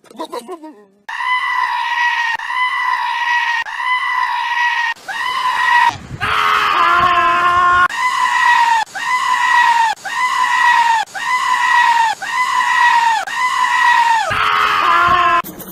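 A goat screaming over and over in a regular series, about one high-pitched, arching call a second.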